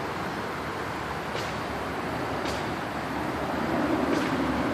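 Steady roadway traffic noise from a nearby highway, swelling slightly near the end.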